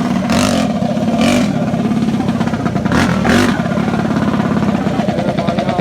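Mini bike engines running loud at high revs, with several short surges in the revving.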